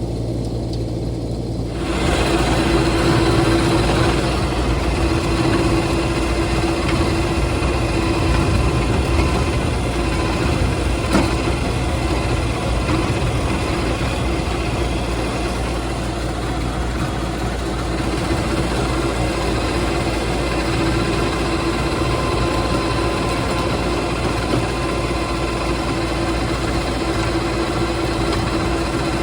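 John Deere 2025R compact tractor's three-cylinder diesel running under load, driving a rear PTO rototiller that churns through hard, long-untilled trail ground. About two seconds in, the sound grows louder and rougher as the tiller bites, and it then holds steady.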